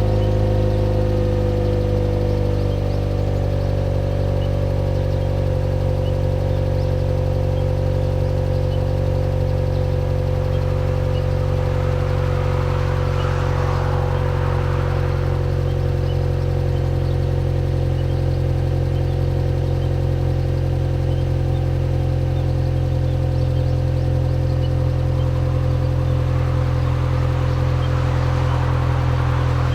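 Subaru Legacy B4 2.0GT's turbocharged EJ20 flat-four idling through an HKS ES Premium aftermarket muffler, a steady low exhaust note. The pitch settles slightly lower in the first couple of seconds, then holds even. A hiss swells up twice, around the middle and near the end.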